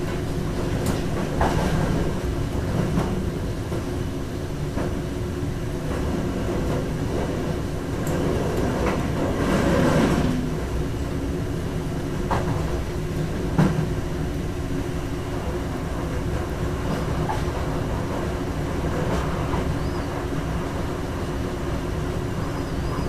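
Electric train running on track, heard from the driver's cab: a steady rumble and hum broken by scattered clacks as the wheels pass over rail joints and points, the loudest about ten and thirteen seconds in.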